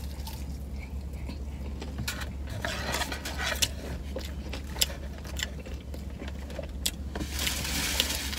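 Close-up chewing of a French fry: wet mouth clicks and smacks, with a denser, noisier stretch near the end, over a steady low hum.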